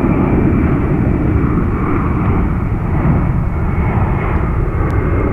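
Jet airliner's engines running loud and steady close by, a deep rumble with a thin high whine.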